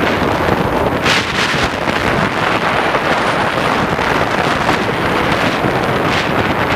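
Steady rush of wind buffeting the microphone of a motorcycle riding at speed, swelling in gusts every second or so.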